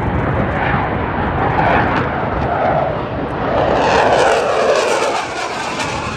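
Fixed-wing aircraft flying past, its engine noise sweeping in pitch as it passes and loudest about four seconds in.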